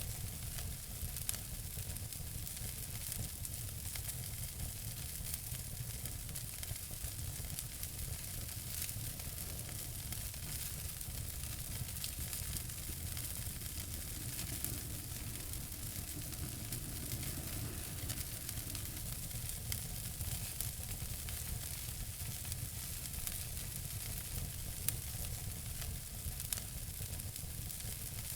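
Wood fire burning in a fireplace: many small crackles and pops over a steady hiss and low rumble, with a few sharper pops standing out, one about a second in and a couple near the end.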